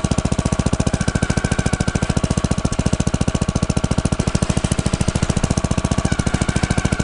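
Newly fitted Briggs & Stratton single-cylinder engine on a Troy-Bilt rototiller running steadily, with an even, rapid firing beat of about ten pulses a second.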